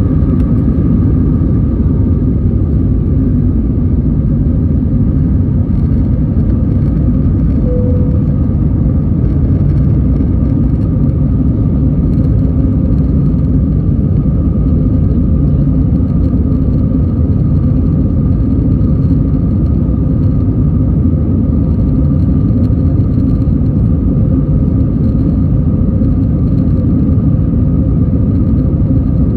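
Jet airliner's engines and airflow heard from inside the passenger cabin: a loud, steady rumble with a constant hum on top.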